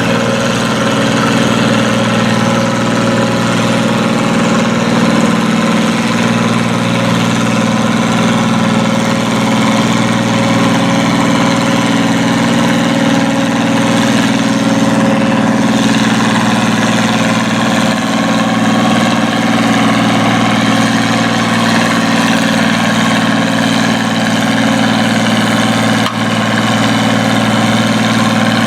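Farm tractor engine in a 9,000 lb pulling class running steadily at a constant pitch.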